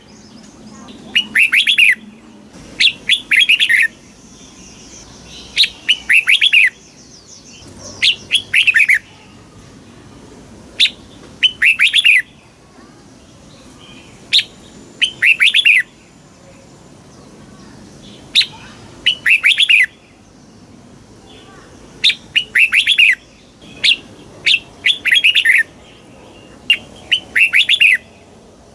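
Red-whiskered bulbul singing: short phrases of quick, bubbling whistled notes, repeated every second or two.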